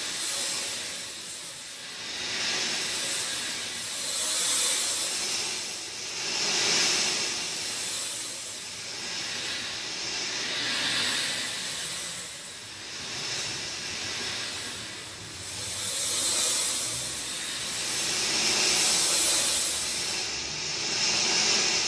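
Rain falling steadily, a dense hiss that swells and eases in waves every two to three seconds.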